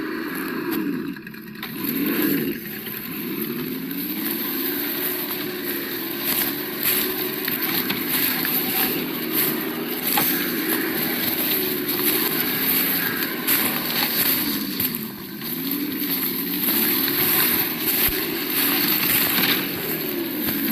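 Simulated engine sound from the sound module on an Absima Yucatan 1:8 RC crawler, its pitch rising and falling over and over as the throttle changes. Scattered clicks and crackles sound over it as the crawler drives.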